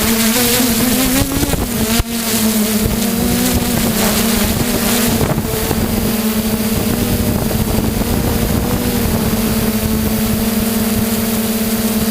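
Quadcopter drone's motors and propellers buzzing in flight, with wind noise on the microphone. The pitch wavers for about two seconds, then settles into a steady hum.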